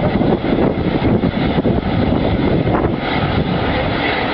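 Steady, loud rumble of vehicle engines running at a fire scene.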